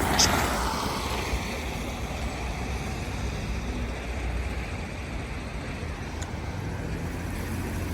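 Road traffic passing on a city street, with a vehicle going by close just at the start, then steady traffic noise.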